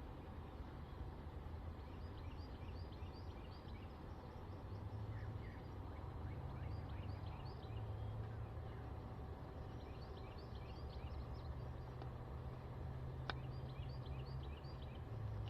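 A songbird singing outdoors, four phrases of quick high chirps, over a steady low hum. There is a single sharp click near the end.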